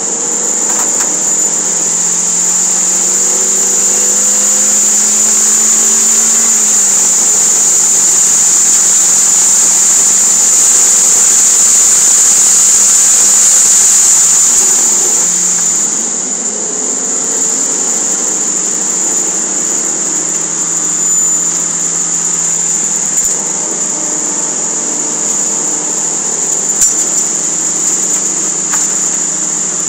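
Toyota MR2 Spyder's 1.8-litre four-cylinder engine pulling hard under full throttle, heard from inside the cabin. Its pitch climbs, drops back at an upshift about seven seconds in, then climbs again with a loud high hiss over it. Around fifteen seconds in the engine comes off the throttle for braking and runs at lower revs through the corner.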